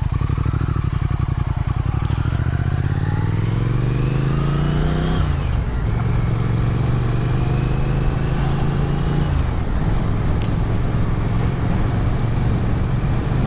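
Motorcycle engine pulling hard, its pitch rising for about five seconds, dropping sharply at an upshift, then running steadily before easing off again a few seconds later.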